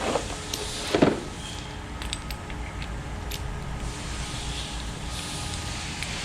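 Metal tools and engine parts being handled: one sharp knock about a second in, then a few light metallic clicks, over a steady hum.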